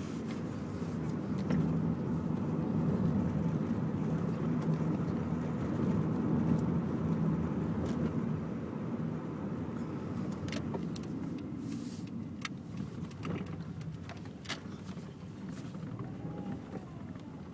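1999 Subaru Impreza 2.0 Turbo's turbocharged flat-four engine, centre catalyst removed, running with road noise at a fairly steady pitch. It eases off and fades in the second half as the car slows, with a few scattered clicks near the end.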